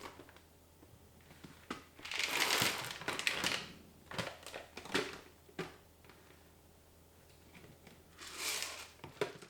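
Crinkling and rustling of plastic packaging being handled, in two bouts, with a few light clicks and knocks of containers between them.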